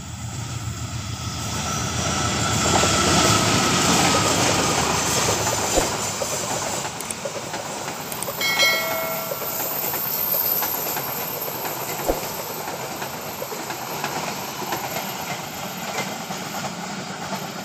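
A train passing close by: the rumble and clatter of its wheels on the rails swell to their loudest a few seconds in, then slowly fade as the cars roll past. About halfway through there is a short pitched tone.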